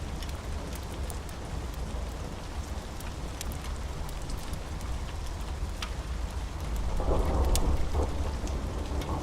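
Steady rain with a low rumble underneath and scattered sharp crackles from a wood fire. A roll of thunder swells in about seven seconds in.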